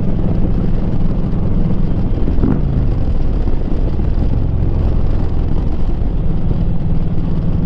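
Harley-Davidson V-twin running through a Rinehart 2-into-1 exhaust while the motorcycle cruises at a steady pace.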